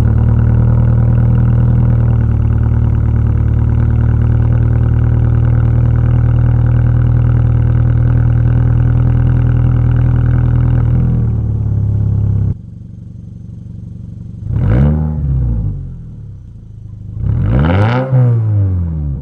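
Toyota GR86's 2.4-litre flat-four running through an RSE Type-D full titanium catback exhaust, freshly started and holding a loud, steady idle for about twelve seconds. It then drops abruptly to a quieter idle, and the engine is blipped twice, each rev rising and falling quickly, the second near the end.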